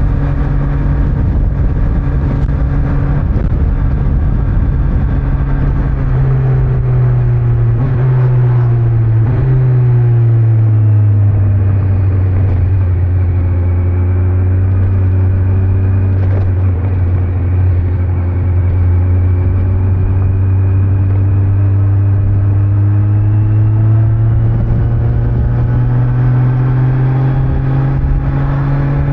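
Kawasaki Z900's inline-four engine through its stock exhaust, under way with road and wind noise. The engine note dips in two steps in the first third, holds steady at cruise through the middle, then climbs slowly near the end as the bike accelerates.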